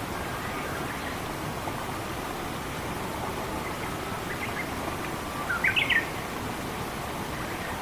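Steady rushing water noise with a small bird chirping: a quick burst of short rising notes about five and a half seconds in, the loudest moment, after a few fainter chirps.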